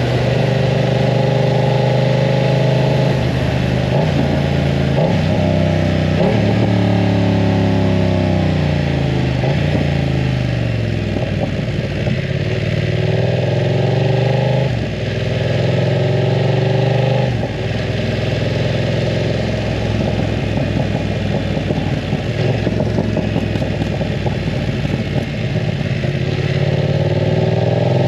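BMW F900 R parallel-twin engine running through a full aftermarket exhaust while riding. Its pitch climbs and drops with the throttle and gear changes, with a long falling note as it slows in the middle.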